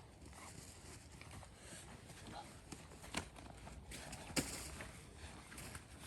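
A scatter of small clicks and knocks at an irregular pace, with two sharper knocks a little after three seconds and at about four and a half seconds, the second the loudest.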